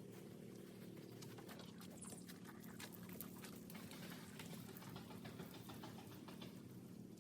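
Faint, irregular ticking and scratching of a detail brush scrubbing a wheel, over a low steady hum.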